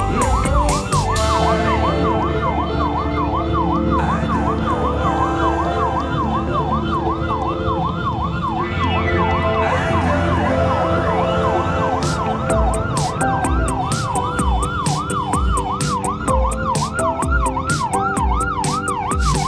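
Electronic siren on a fast yelp, its pitch sweeping up and down about two to three times a second, over background music with a low beat.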